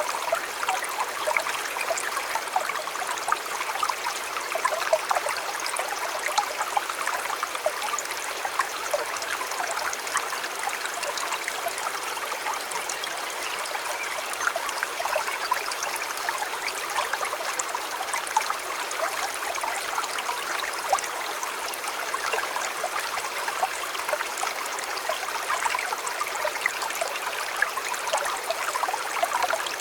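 A river babbling steadily over stones, with many small splashes and gurgles in an even rush of water.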